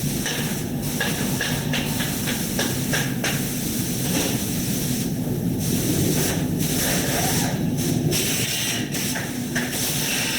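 Steady machinery noise with a constant hiss and a low hum, dipping briefly now and then.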